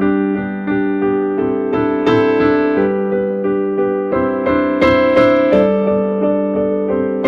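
Piano-type keyboard playing a slow instrumental piece: a melody of repeated and stepping notes over a held low note, with a few brighter, stronger notes struck around the middle.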